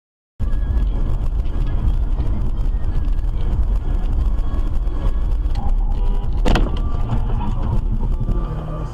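Loud, steady low rumble of a car driving on the road, with one sharp bang about six and a half seconds in.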